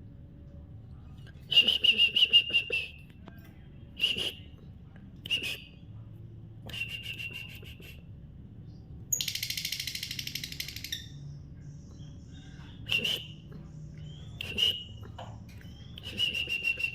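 Lovebird giving repeated bursts of rapid, high-pitched trilling chatter, some under half a second and some over a second long. About nine seconds in there is a harsher, hissier two-second burst.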